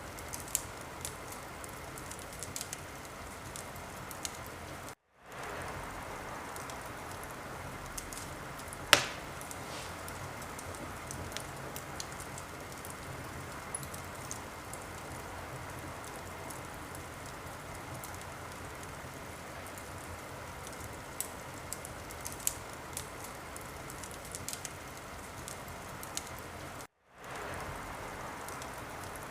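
Wood fire in a fireplace crackling, with a steady hiss and frequent small pops and one loud crack about nine seconds in. The sound cuts out for a moment twice, near five seconds and near the end.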